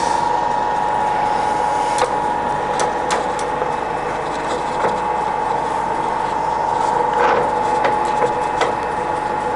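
Geared headstock of a Scott 6250L centre lathe running steadily at a low spindle speed of about 71 rpm in the medium range, with one steady tone and a few sharp clicks scattered through.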